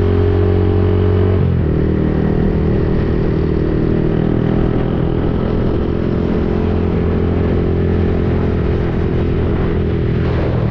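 Yamaha XSR155's single-cylinder engine running through an aftermarket Akrapovic-replica exhaust on the move; its steady note breaks up about a second and a half in.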